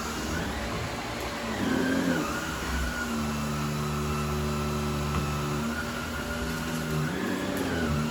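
Vacuum cleaner motor running steadily, its pitch dipping and rising a couple of times as the load on it changes while it is pushed over the floor.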